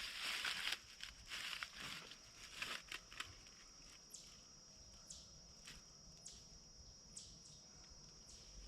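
Rustling and crunching in dry leaf litter during the first few seconds. After that, a quiet woodland with faint, short, high chirps every second or so.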